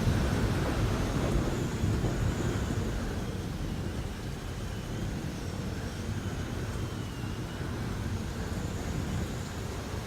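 Thunderstorm ambience: a steady low rumble of wind and storm noise, easing slightly partway through, with faint wavering high whistles.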